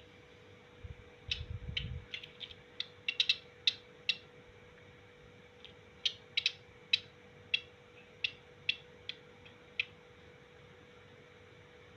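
Ciblek gunung, a prinia, giving short, sharp chip notes in two irregular bouts, each of about a dozen quick calls, with a low rumble of handling about a second in. A faint steady hum lies underneath.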